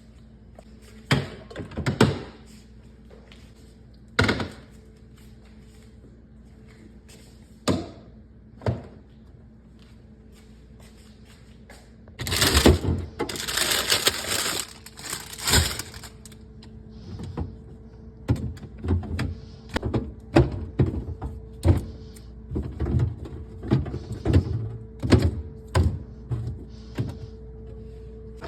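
Fridge cleaning: bottles, containers and shelves knocking and clunking as they are handled. About halfway through comes a few seconds of hissing noise, and the knocks grow more frequent toward the end over a faint steady hum.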